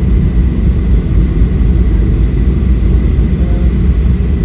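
Boeing 737-800 taxiing with its CFM56 jet engines at low thrust: a loud, steady low rumble with a faint thin whine above it.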